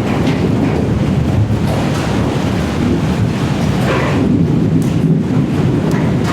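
Thunderstorm: a steady, loud low rumble of rolling thunder with rain, and a few faint splashes higher up.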